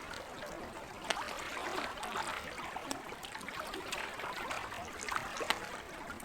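Wood campfire crackling, with scattered sharp pops over the gentle sound of lake water.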